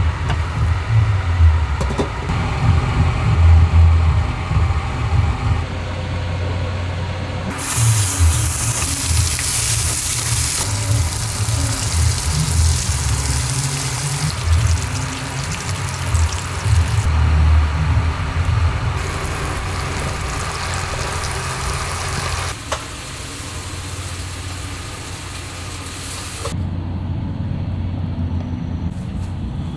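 Cooking on a stovetop in several short cuts: sliced pork sizzling in a frying pan and a lidded pot of mushroom hot pot simmering, with a steady hiss through the middle stretch over a constant low rumble.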